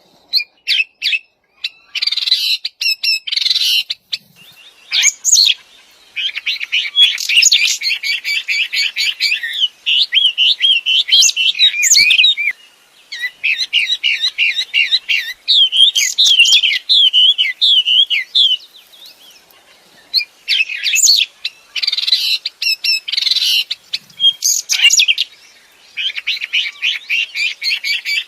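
A wambi songbird singing energetically in bouts of a few seconds: fast, chattering warbles mixed with sharp high whistled notes, with brief pauses between phrases.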